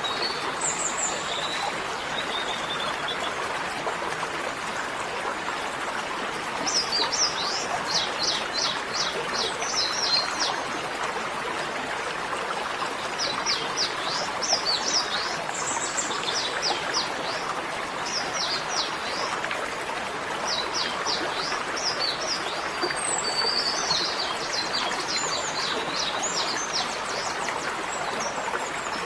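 Steady rush of running water, with small birds chirping in quick repeated trills over it.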